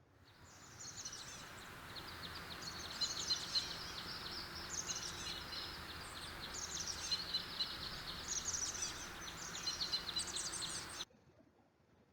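Sparrows chirping, many rapid short high chirps over a steady hiss of outdoor background. The sound fades in at the start and cuts off abruptly about eleven seconds in.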